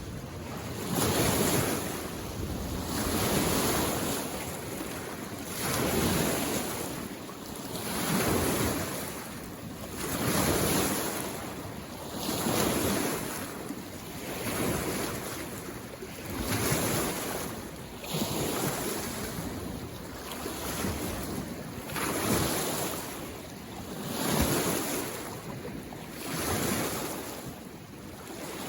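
Small lake waves washing in on the shore one after another, each swelling and fading about every two seconds.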